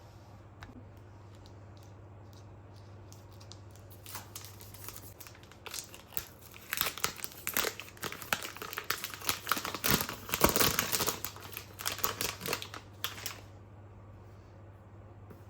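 Packaging being crumpled and handled by hand: dense, irregular crinkling that starts about six seconds in, peaks around ten seconds and stops shortly before the end.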